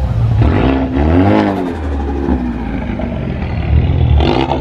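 Car engine idling with a steady low rumble, revved up and back down once about a second in.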